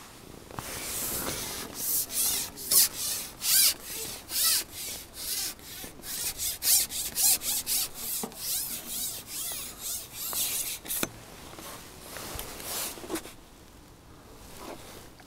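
A quick run of short rubbing or scraping strokes, several a second, that stops about eleven seconds in, with a few more shortly after.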